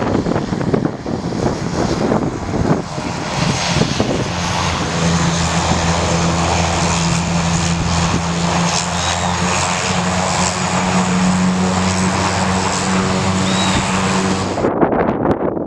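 Aircraft engine noise running loud and steady on the ground. A low droning hum settles in about four seconds in, and the sound cuts off abruptly near the end.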